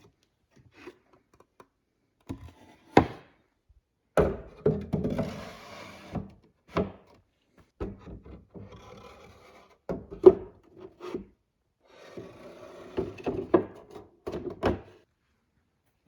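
Wooden knocks and thunks with wood scraping and rubbing on wood between them, as boards or drawer parts are handled and fitted together. The knocks come irregularly, the loudest about three seconds in and again around ten seconds.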